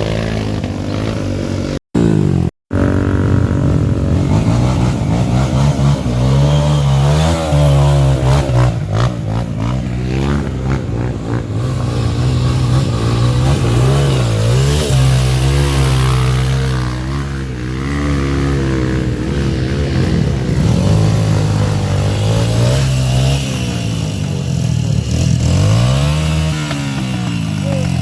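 Several dirt-bike engines revving up and down again and again, their pitch rising and falling and overlapping, as off-road motorcycles work through mud. The sound cuts out twice, briefly, about two seconds in.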